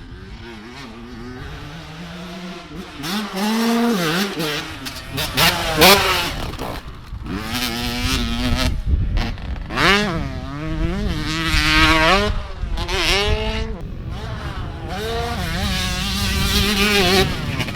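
Pit bike engines revving up and down over and over as the bikes are ridden around an indoor track, the pitch climbing and falling with each burst of throttle.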